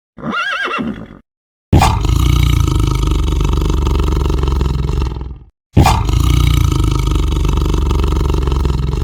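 A short horse whinny at the start, then two long, loud animal roars, each lasting about three and a half seconds and starting abruptly, with a brief gap between them.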